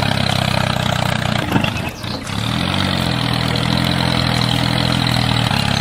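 Mini tractor's engine idling steadily, with a brief dip about two seconds in and a short waver in pitch just after.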